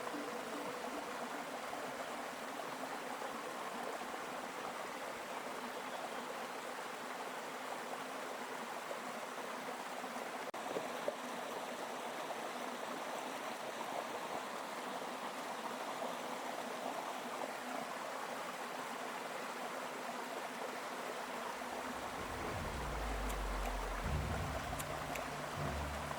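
River water rushing steadily as an even hiss. Low music comes in near the end.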